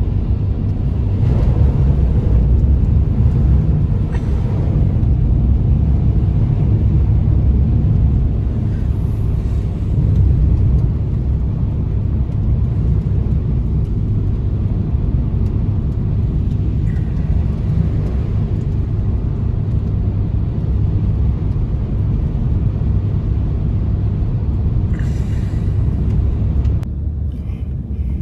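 Strong blizzard wind blowing in a steady low rumble.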